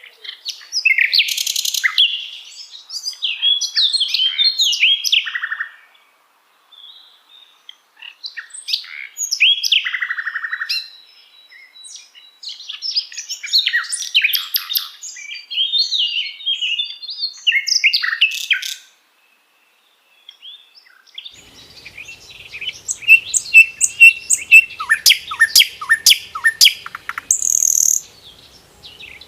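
Common nightingale singing: a string of varied, rich whistled phrases separated by short pauses. The last phrase is a fast run of rapidly repeated notes that ends in a brief high buzz.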